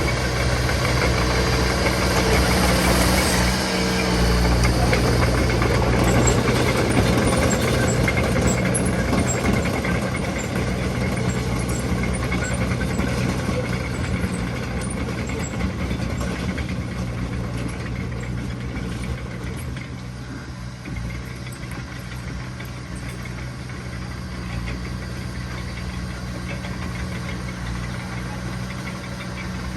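Heavy earthmoving machinery engine running steadily, louder for the first ten seconds or so and then easing off a little.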